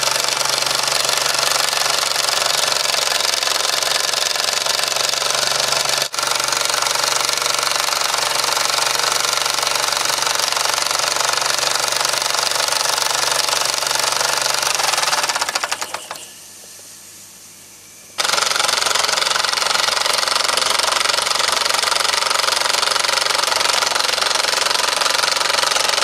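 Mamod model steam engine running fast, a steady rapid clatter of its piston strokes with steam hiss. About two-thirds of the way through the strokes slow and drop away to a faint hiss for a couple of seconds, then the full running sound comes back suddenly.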